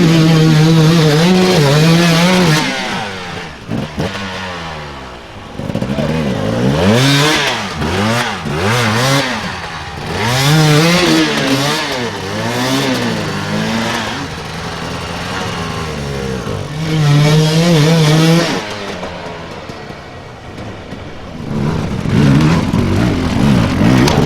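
Dirt bike engines revving hard, the pitch climbing and dropping over and over as the throttle is worked, held at steady high revs for a couple of seconds near the start and again about two-thirds through.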